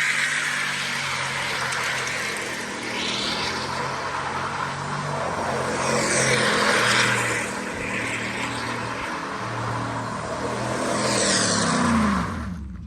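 Pickup truck doing a burnout and donuts: the engine revs hard while the tyres screech against the pavement, with louder squeals about six and eleven seconds in. Near the end the revs fall away and the sound drops off sharply.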